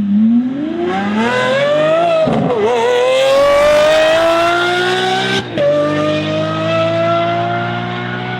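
Twin-turbo Chevy Silverado's engine accelerating hard down the drag strip, its pitch climbing through the gears, with a shift about two seconds in and another about five and a half seconds in.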